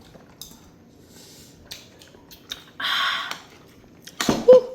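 Eating at the table: faint chewing and small clicks of cutlery, with a short rushing noise about three seconds in and a sharp knock near the end.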